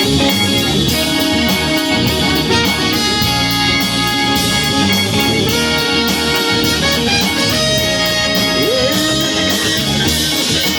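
Rock band playing an instrumental passage between sung lines: guitar over drums, with a steady hi-hat ticking about three or four times a second.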